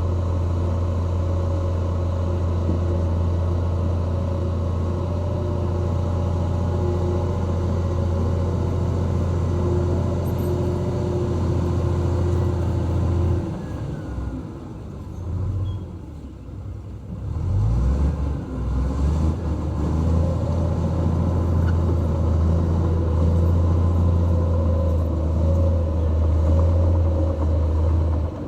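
Diesel engine of a heavy earthmoving machine running with a steady low drone. About halfway through the drone drops and wavers for a few seconds, then settles back to a steady run.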